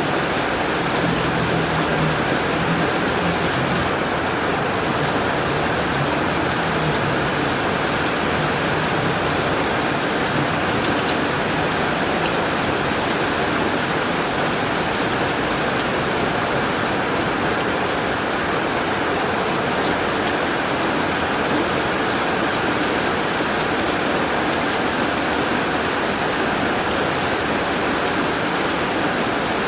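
Heavy rain falling steadily on a tin roof, an even unbroken wash of drops.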